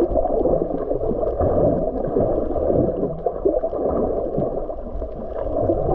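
Steady, muffled churning and gurgling of water, with a low rumble underneath.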